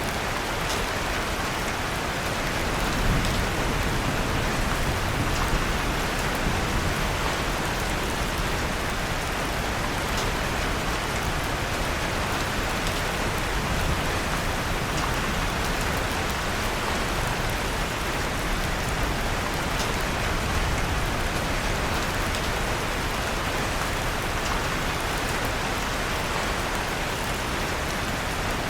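Steady rain falling, mixed with a few faint, sharp crackles from a wood fire in a fireplace.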